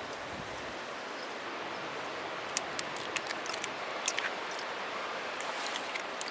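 Steady rush of a valley stream, with a few sharp light clicks between about two and four and a half seconds in.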